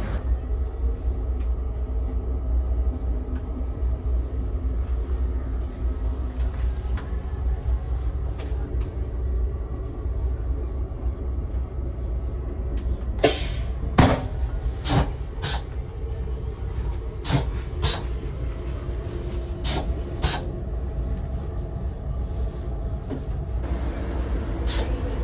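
Interior rumble of a moving Rocky Mountaineer train car, steady and deep. In the middle, about eight sharp clicks come mostly in pairs about half a second apart.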